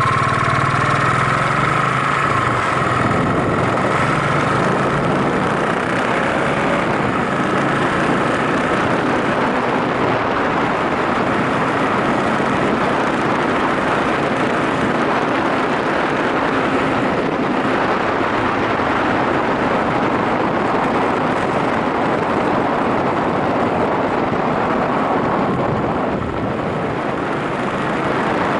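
Yamaha SRX400 motorcycle on the move, its single-cylinder four-stroke engine running steadily under a constant rush of wind and road noise.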